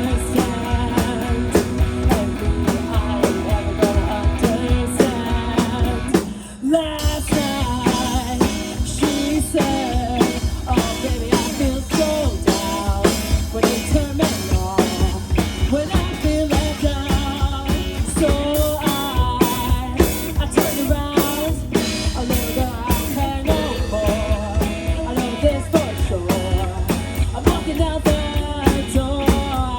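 A rock band playing live, a drum kit keeping a steady beat under other instruments, with a brief break about six and a half seconds in.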